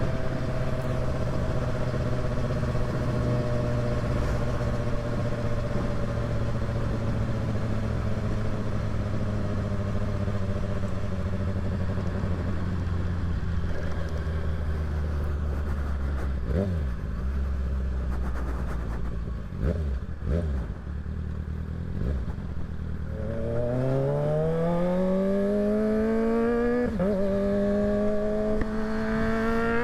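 Kawasaki ZX-6R's inline-four engine under way: steady running that slowly drops in pitch as the bike eases off, a few short blips of the throttle in the middle, then it revs up hard from low, with an upshift a few seconds before the end and rising again after it.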